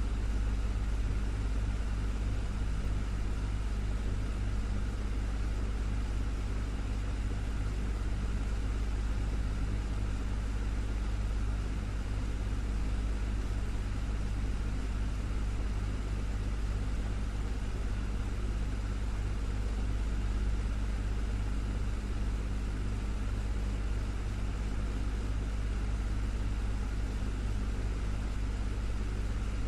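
Desktop fan running steadily: a constant whir over a strong low hum.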